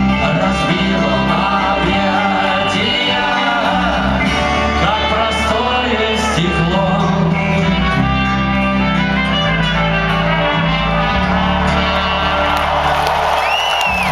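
Live rock band playing, with singing over sustained bass and guitar. Near the end the crowd starts cheering and someone whistles.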